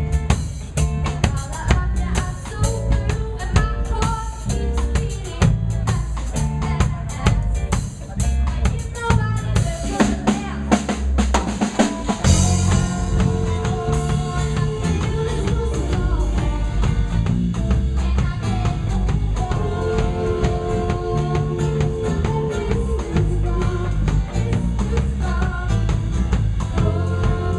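Live band playing an instrumental passage: drum kit with snare rimshots and bass drum driving a steady beat under bass and sustained keyboard or guitar chords, with a drum fill about ten seconds in before the full groove resumes.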